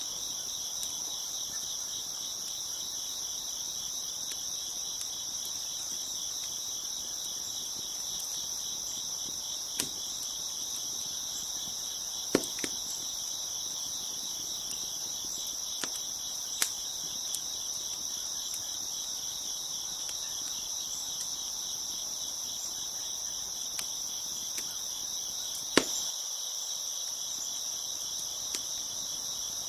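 Crickets chirping steadily in a dense chorus, with a wood fire crackling: about ten sharp pops scattered through, the loudest near the end.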